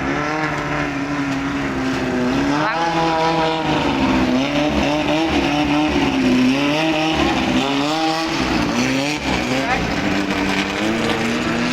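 Racing boat engine running hard and revving, its pitch rising and falling repeatedly, with dips about three seconds in and again around eight to nine seconds.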